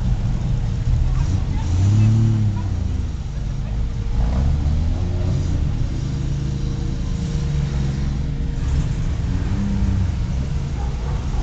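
Classic cars, a Triumph TR6 and an early-1960s Cadillac convertible, driving slowly past with their engines running; about two seconds in an engine's pitch rises and falls as it is revved.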